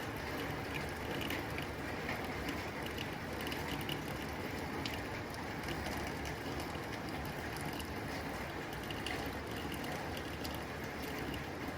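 Steady rain drumming on a tin roof, a dense patter of many small irregular taps over a constant wash of falling rain.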